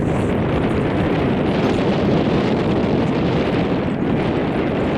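Wind buffeting the microphone of a camera carried on a moving bicycle: a loud, steady, rumbling rush.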